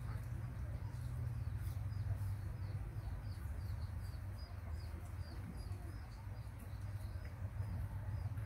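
A small bird chirping in a quick repeated series, about three short high chirps a second, over a steady low hum.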